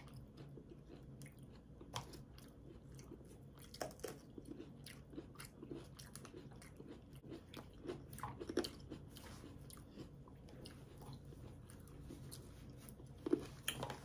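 People chewing and biting food, with many small crunches and wet mouth clicks, fairly faint, and a few louder clicks, the loudest near the end.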